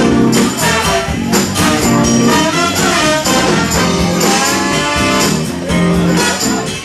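Live band playing an instrumental passage with horns and drums at a steady beat.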